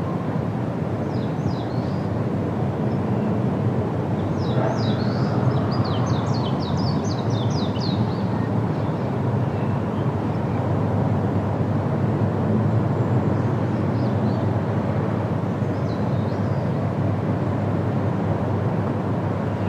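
Steady wind blowing through trees, with a small bird chirping over it: a few quick notes about a second in, a fast run of short falling notes from about four to eight seconds, and faint chirps later on.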